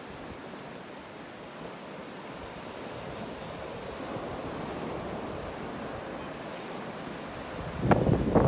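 Steady wash of surf on a beach, swelling gradually in the second half, with loud bursts of noise near the end.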